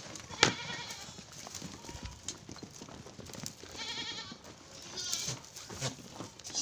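Sojat goat kids bleating, with a few short calls spread through, and a sharp knock about half a second in.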